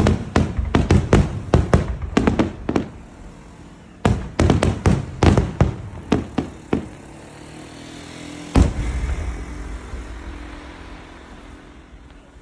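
Aerial fireworks shells bursting overhead: two volleys of rapid, sharp bangs, then about two-thirds of the way through a single big boom whose low rumble slowly fades away.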